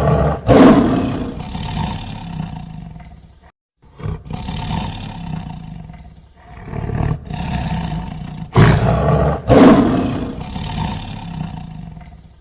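Lion roaring: loud roars that each start abruptly and fade away over a few seconds. There is a short break about four seconds in, then two more strong roars about two-thirds of the way through.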